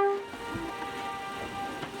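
A trumpet's held note breaks off at the start, and fainter echoes of the melody linger and die away, typical of the Königssee boat-trip trumpet echoing off the surrounding rock walls.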